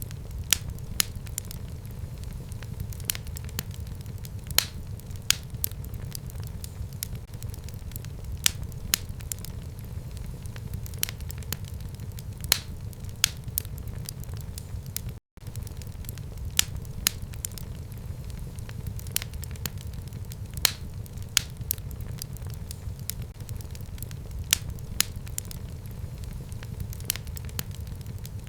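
Fire burning in a home fireplace: a steady low rumble with sharp, irregular crackles and pops a second or so apart, broken by a split-second drop to silence about halfway through.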